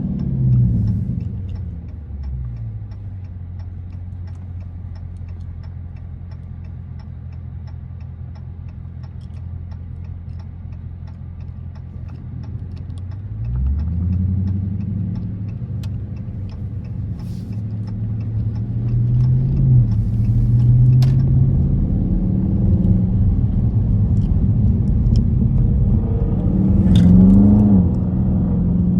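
Dodge Charger SRT 392's 6.4-litre HEMI V8 running while driving. The engine note falls as the car slows at the start and stays low and steady for about ten seconds. It picks up as the car accelerates about halfway through, and rises again near the end.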